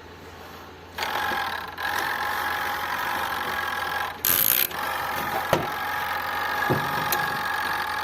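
Plastic twin-tub washing machine's wash motor switched on by the newly fitted timer: it starts suddenly about a second in and runs with a steady hum. A brief loud hiss breaks in about four seconds in, and a few light knocks follow.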